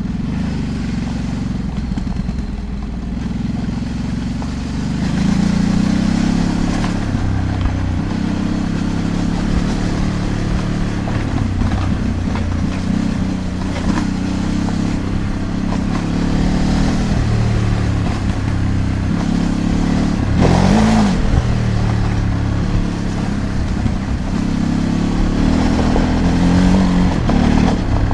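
Ducati DesertX Rally's 937 cc V-twin running under a rider's changing throttle, the engine note rising and falling. About 20 seconds in the revs swell up and drop back.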